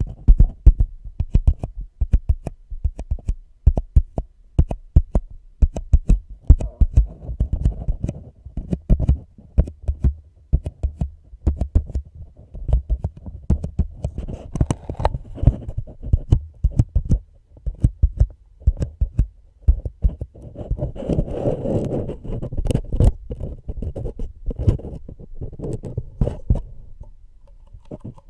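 Close-miked ASMR trigger sounds: quick, heavy tapping a few times a second, with a stretch of rubbing and scratching about twenty seconds in.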